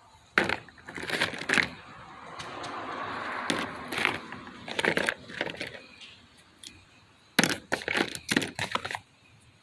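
Small plastic toy figures being handled and set down, giving clusters of sharp clacks and knocks, with a soft rustle about two to four seconds in.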